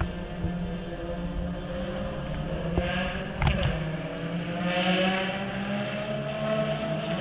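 A Ferrari track car's engine running with a steady, slowly rising pitch, and a sharp click about three and a half seconds in.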